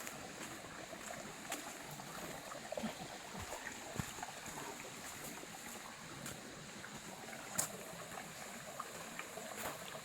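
Water running over rocks, with a few sharp knocks about four seconds in and again near the end.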